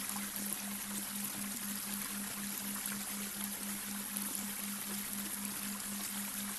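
Babbling brook, water running and trickling steadily, with a low delta-wave tone humming underneath and pulsing about five times a second.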